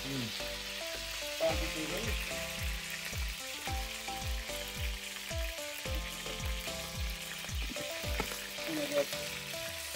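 Momo dumplings sizzling in hot oil in a non-stick frying pan as they are pan-fried and turned with metal tongs. A steady frying hiss plays under background music with a regular beat.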